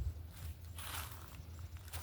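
A footstep crunching on the forest floor, one noisy step from about half a second in to about a second in, over a low steady hum.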